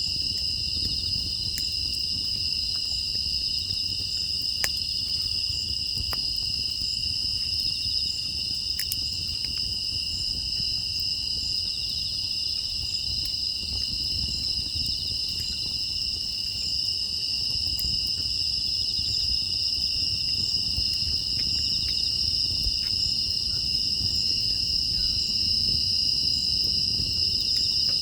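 Steady chorus of crickets and other grass insects trilling at a high pitch, with a low rumble underneath and a few faint crackles from the wood fire.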